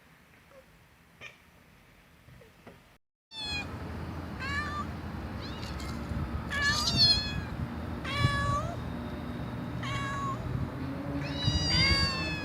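A cat meowing over and over: short, high-pitched meows about once a second, beginning a few seconds in after a brief silence.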